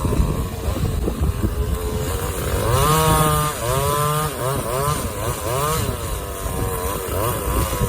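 Chainsaw engine running, revved up and let back down several times between about three and six seconds in, then settling back to a steady pitch. The owner says the saw is running lean and needs its carburettor tuned.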